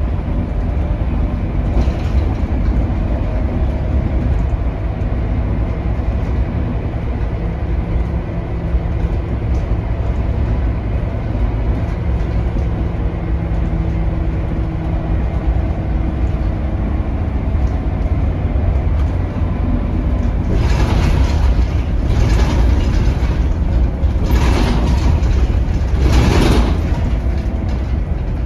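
Scania K280UB bus, its five-cylinder Scania DC9 diesel running under way, heard from on board as a steady low drone with faint engine tones. About two-thirds of the way in, four loud noisy surges of about a second each rise over the drone.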